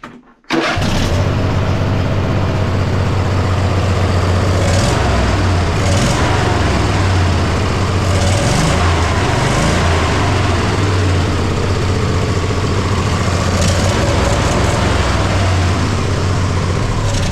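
Poulan riding mower's 24-horsepower twin-cylinder engine running steadily and smoothly, its speed briefly rising and falling about eight seconds in. The misfire is gone now that the valve lash on one cylinder has been reset: its intake was too loose and its exhaust too tight.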